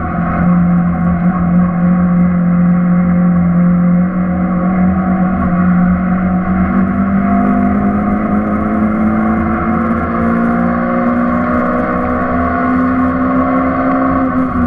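Suzuki Swift's four-cylinder engine heard from inside the cabin, accelerating in one long gear with the revs climbing slowly and steadily, over tyre and wind noise.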